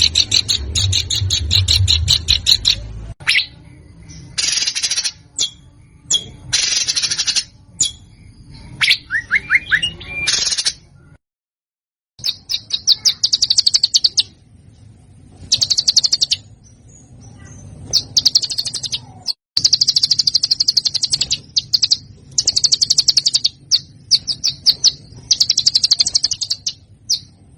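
Songbird song from a bird-tutoring (masteran) recording: fast, harsh, high-pitched trills and rattling rolls in bursts of one to two seconds. A low background rumble stops abruptly about three seconds in, and the song breaks off for about a second at two hard edits.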